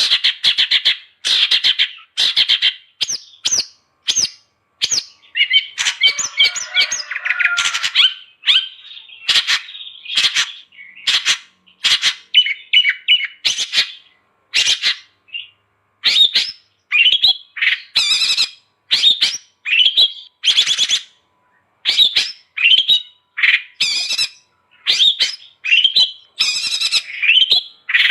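Long-tailed shrike (cendet) in full, vigorous song: a fast, nearly unbroken run of short harsh squawks and sharp chirps, with a scratchier rasping passage about five to eight seconds in.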